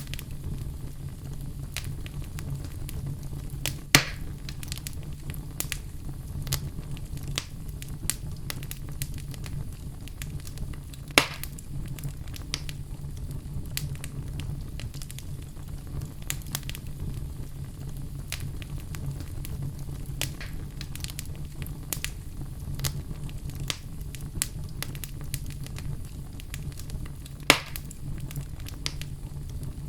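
Wood log fire crackling: many scattered snaps over a steady low rumble, with three louder pops about four, eleven and twenty-seven seconds in.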